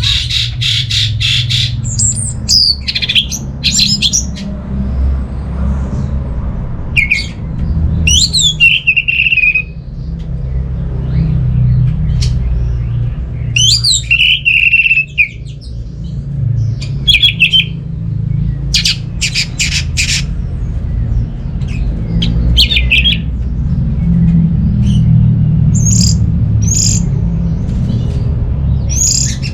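Orange-headed thrush singing in short, varied phrases separated by pauses: rapid chattering runs and sweeping whistles that fall to a held note. A steady low rumble runs underneath.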